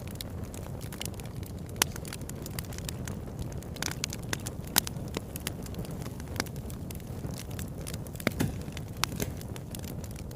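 Fire burning in a fireplace: a steady low rumble under frequent sharp crackles and pops, with a handful of louder pops scattered through.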